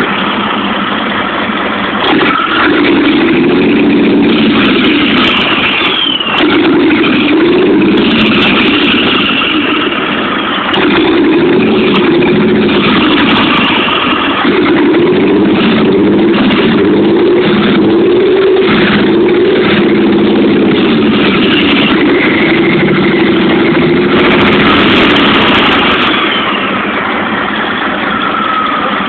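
Scania 113 truck's freshly rebuilt six-cylinder diesel engine running and being revved up and down repeatedly, its note rising and falling in waves. Near the end, as the revs come down, a high whine falls away.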